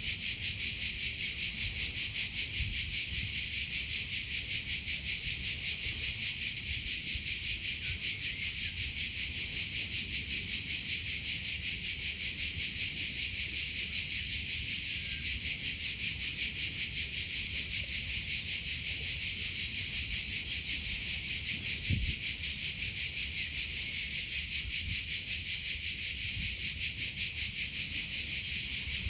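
Crickets chirping steadily: a continuous high-pitched trill with a fast, even pulse.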